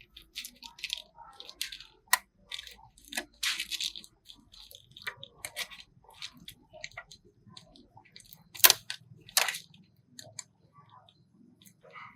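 Irregular small clicks, taps and scrapes of tools and small phone parts being handled during a repair, with one sharp click about eight and a half seconds in.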